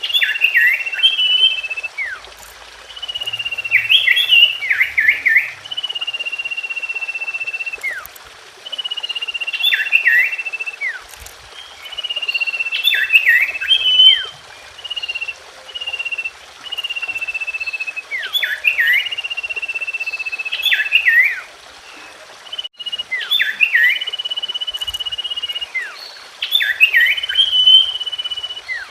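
Common iora singing. Each phrase is a long level whistle followed by a burst of quick falling chirps, repeating every four to five seconds.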